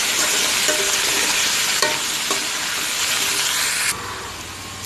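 Chopped vegetables sizzling in hot oil in a pan while a metal spatula stirs them, with a few short scrapes against the pan. The sizzle cuts off abruptly near the end, leaving a low hum.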